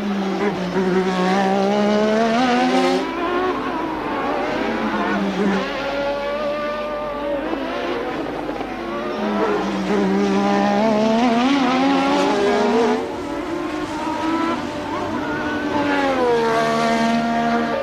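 1988 Formula One car engine running hard at high revs. The pitch climbs through each gear and drops sharply at every shift or lift off the throttle, a few times over.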